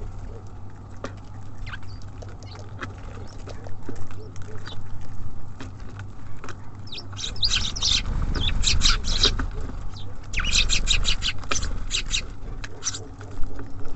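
Small songbirds at a feeder, tits and sparrows, chirping in quick runs of short, high notes that come thickest in the second half, over a low steady rumble.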